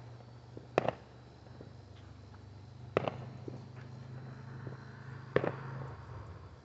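Three fireworks bangs, roughly two seconds apart, each with a short echo, over a steady low hum.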